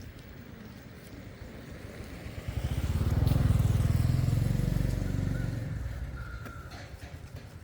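A motor vehicle passes by: a low engine note that swells to its loudest a few seconds in, then fades away.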